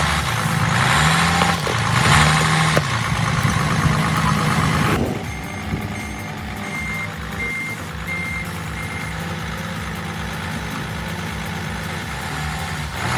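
Heavy vehicle engine revving hard under load for about five seconds, then running more quietly and steadily. A reversing alarm beeps four times partway through.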